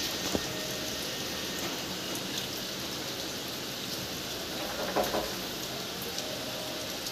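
Steady rain falling, an even hiss with a few sharper drips or knocks, the loudest about five seconds in.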